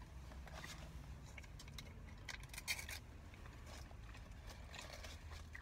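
Close chewing and mouth sounds of someone eating a roast beef sandwich: soft wet clicks and crackles, busiest around the middle with one sharper click.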